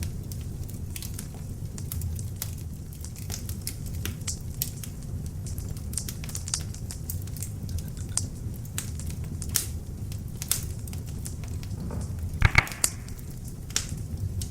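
Beech logs burning in an open fireplace: a steady low rumble of flames with frequent sharp crackles and pops at irregular intervals, and one louder cluster of pops near the end.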